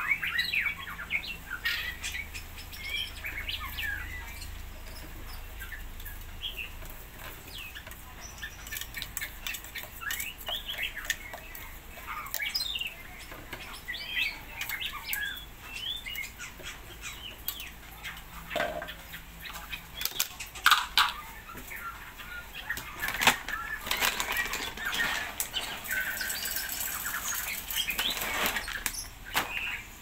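Caged birds chirping and calling in many short, quick notes, with scattered sharp clicks and knocks among them.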